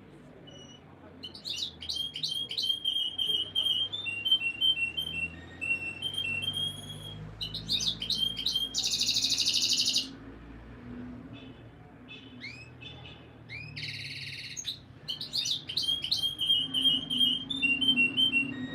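Canary singing: runs of quick repeated chirps and trills, with a loud buzzing roll about nine seconds in and a shorter one near fourteen seconds.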